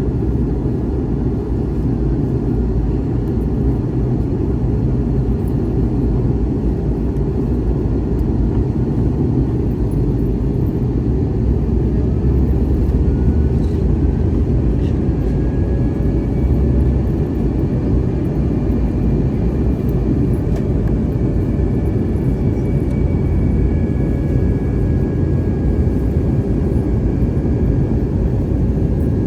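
Airbus A321neo cabin noise in flight: a steady, loud low rush of airflow and engines, with faint engine tones slowly gliding in pitch.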